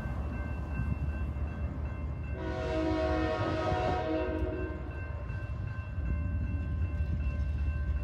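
Train horn sounding one blast of about two seconds, a chord of several tones, over the steady low rumble of a train.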